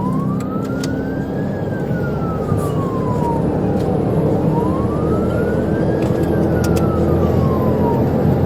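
Police car siren wailing, its pitch sweeping slowly up and down twice, over loud engine and road noise from a vehicle at speed.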